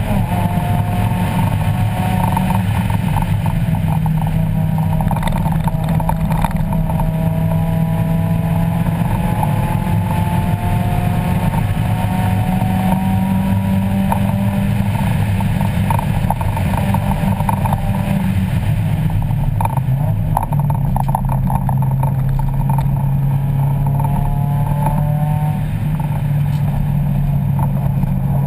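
A 1994 Mazda Miata race car's 1.8-litre four-cylinder engine, heard from inside the cabin while lapping a track, its pitch climbing again and again as it accelerates, with a sudden drop in pitch about twenty seconds in.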